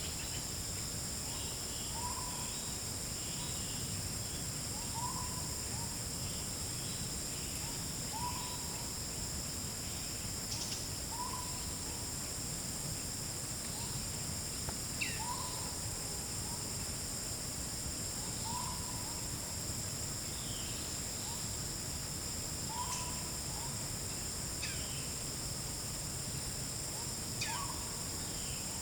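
Forest ambience: a short whistled hoot repeated about every three seconds over a steady high insect drone, with a few brief higher calls from other birds.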